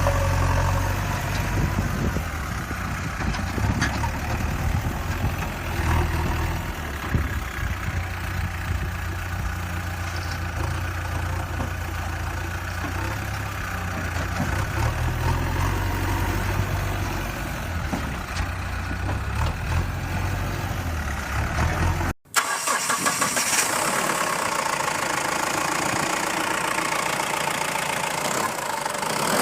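Engine running steadily with a low hum; about 22 seconds in it cuts out for a moment and is replaced by a lighter, higher engine sound with little low end.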